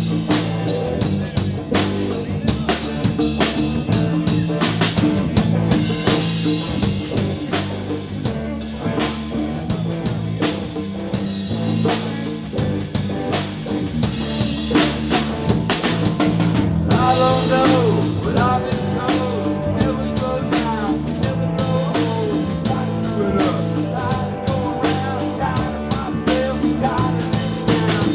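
Live blues band playing: a drum kit keeps a steady beat over a repeating bass line, and a lead line of bending notes comes in about two-thirds of the way through.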